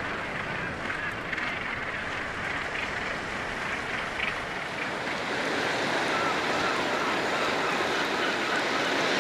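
Steady wash of surf and wind under the massed calling of a gannet colony on sea cliffs, becoming a little louder about halfway through.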